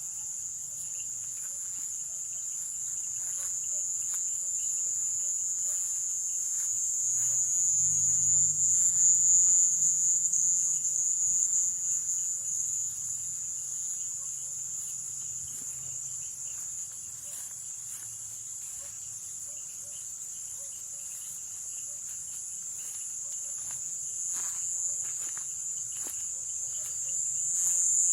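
A chorus of nocturnal rainforest insects: a steady, high-pitched trill that swells louder about a third of the way through and again near the end.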